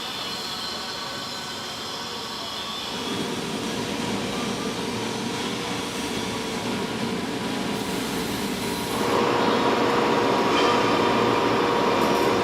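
Steady mechanical rumble with a constant hum, stepping louder about three seconds in and again about nine seconds in.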